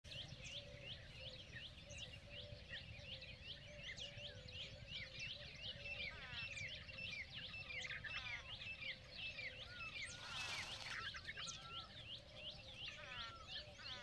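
Small birds chirping rapidly and continuously, several short high chirps a second, over a low background rumble, with a brief rustling noise about ten seconds in.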